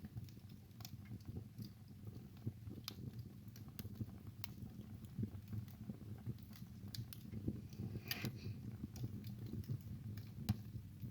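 Wood fire crackling in a fireplace: irregular sharp pops and snaps over a low, steady rumble of the flames, with a cluster of louder crackles about eight seconds in and the sharpest single pop near ten and a half seconds.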